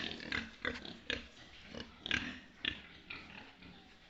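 Pig grunting: a run of short grunts, several a second, growing sparser near the end.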